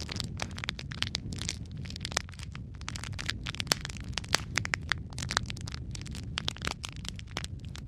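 Wood fire burning in a fireplace, with dense irregular crackles and sharp pops over a steady low rumble of flames.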